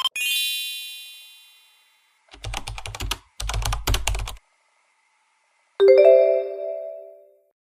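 Edited-in sound effects: a bright chime that fades out, two short runs of rapid keyboard-like clicking, then a lower chime a few seconds in that fades away, with dead silence between them.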